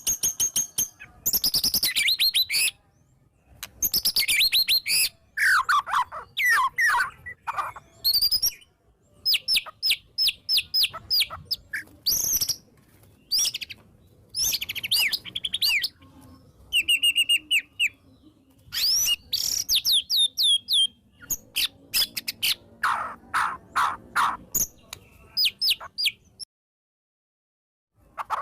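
White-rumped shama singing a loud, varied song: quick bursts of rapid rattling notes, sharp repeated clicks and gliding whistles, separated by short pauses. The song drops out completely for a moment near the end, then starts again.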